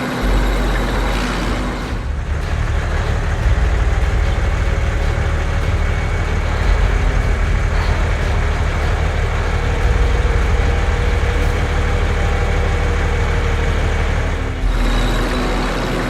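A truck-type engine running with a deep, steady rumble. Its sound shifts about two seconds in and again near the end.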